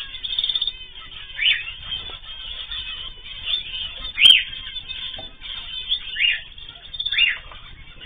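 Caged ornamental birds (cockatiels, zebra finches, canaries) chirping and calling over a busy background chatter, with loud short calls that rise and fall in pitch every second or so. A sharp click comes about four seconds in.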